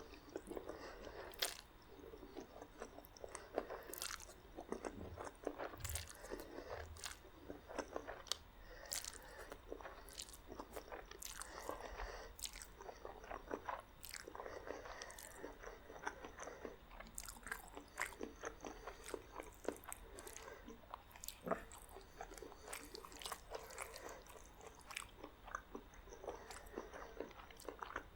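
Close-miked eating of spaghetti and garlic bread: steady wet chewing with frequent sharp crunches and bites, the crunch of toasted garlic bread.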